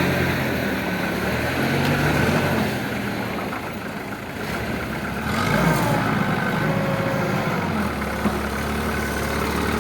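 Truck engine running as the truck is manoeuvred into position, its engine note shifting about halfway through.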